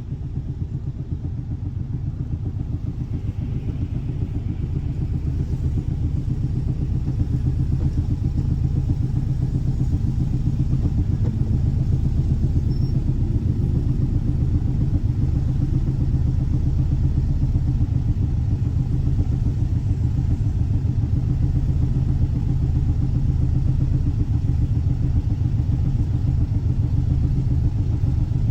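Air-cooled 1584 cc flat-four boxer engine of a Volkswagen Fusca (Beetle) running steadily, growing a little louder over the first several seconds and then holding even.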